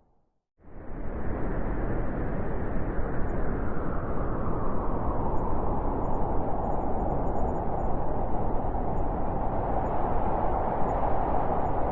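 Blizzard wind blowing steadily, a dense rushing noise with a howl near the middle of its range that grows a little stronger later on. It starts after a brief silence and fades in within the first second, where the ambience track loops.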